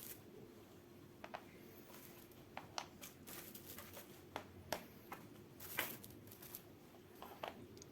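Faint, scattered small clicks and light handling noises, about a dozen, with one longer rustle about six seconds in, over a low steady hum.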